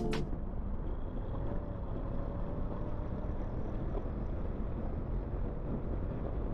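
Wind rushing over the microphone and the steady running of a Honda NC750X motorcycle's parallel-twin engine while riding along the road. Music cuts off just after the start.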